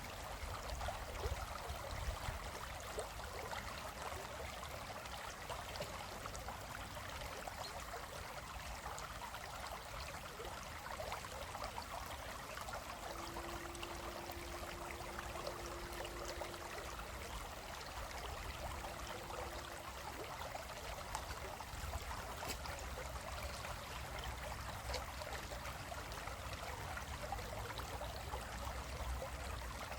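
Stream water flowing across rocks: a steady rushing and trickling.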